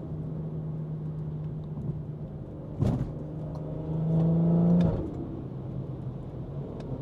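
BMW 340i's turbocharged B58 inline-six running at a steady low drone, with one sharp knock about three seconds in. About four seconds in the engine note swells and rises slightly for about a second, then drops back.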